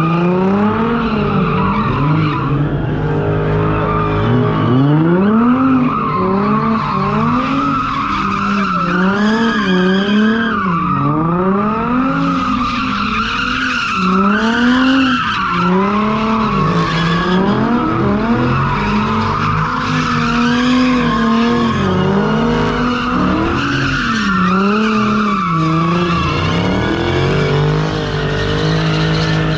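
A car engine revving up and down over and over, about every second or two, with tyres squealing and skidding.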